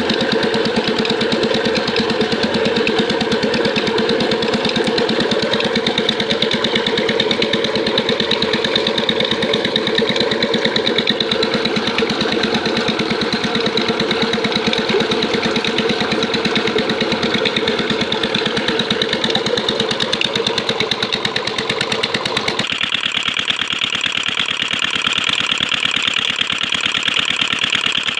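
Petter stationary diesel engine running steadily with a rapid, even firing beat. Near the end the sound changes abruptly, becoming thinner and brighter with less low end.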